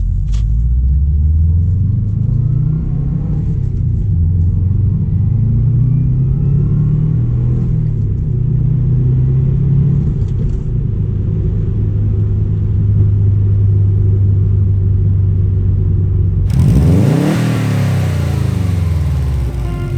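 2002 Subaru WRX's turbocharged flat-four running through a Borla Hush catback exhaust, its pitch rising and falling as it revs and then holding steady; the exhaust, its leaking joint now sealed, is quiet. About three seconds before the end a louder rushing sweep comes in.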